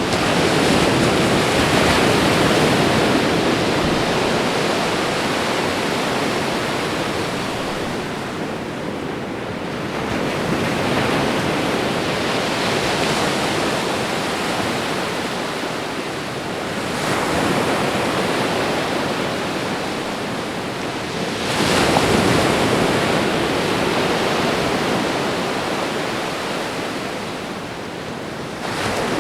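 Ocean waves breaking on a shore and washing back, four surges that each build and fade over several seconds.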